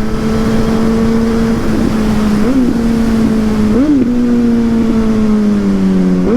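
Suzuki GSX-S1000's inline-four engine running through a Yoshimura aftermarket exhaust, held at a steady engine speed while riding, with two brief throttle blips in the middle and the pitch easing down slightly near the end.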